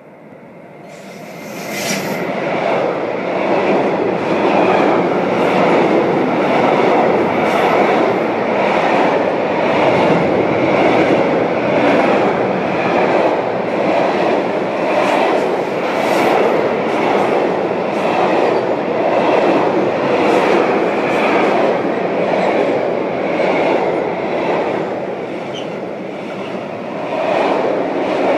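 Electric freight train passing close by. The locomotive goes past about two seconds in, followed by a long string of covered freight wagons rumbling over the rails with a steady clickety-clack and a brief high wheel squeal now and then.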